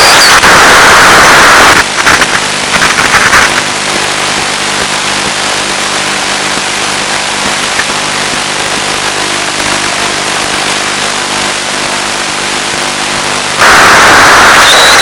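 Audio from an analog 1.3 GHz FPV video link: loud static hiss, broken about two seconds in by a quieter, steady hum with a fixed pitch, which gives way to the loud hiss again near the end.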